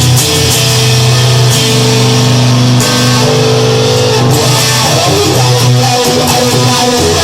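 Instrumental break in a rock song: electric guitar and bass guitar playing held chords, with no singing.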